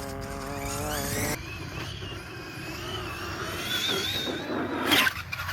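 Electric motor of an RC monster truck whining: a steady hum of several tones for the first second and a half, then a whine that rises in pitch for about three seconds as the truck speeds up off the jump. A thump near the end as it lands.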